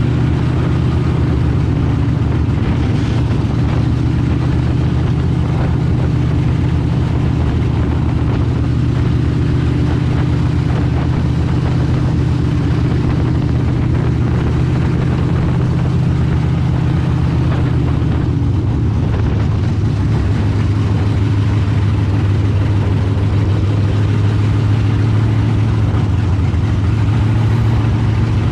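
Street stock race car engine running steadily at low, even speed, a deep drone whose pitch barely changes; the pitch settles slightly lower about two-thirds of the way through.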